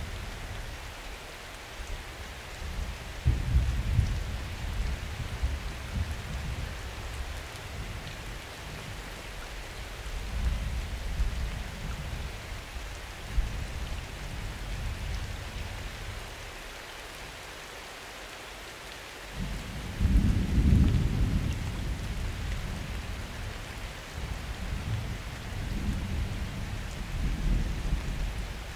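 Steady rain falling with thunder rumbling repeatedly, in several rolling swells; the loudest roll comes about two-thirds of the way through.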